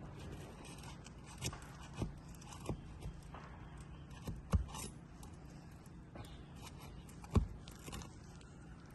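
A handful of light knocks and scrapes from 3-tab asphalt shingles being handled and worked loose by hand, the loudest about halfway through and near the end.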